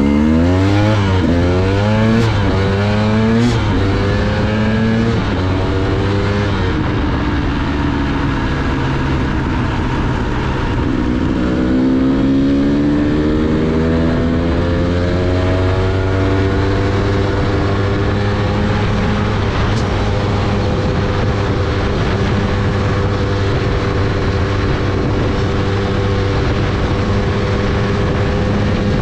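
KTM dirt bike's engine pulling away through the gears. Its pitch climbs and drops several times in quick succession as it shifts up, then falls off. It rises again in one long pull and settles to a steady cruise for the rest.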